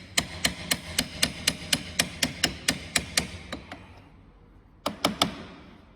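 Light hammer taps on metal, about four a second, each with a short ring: a run of about fourteen, a pause, then three more.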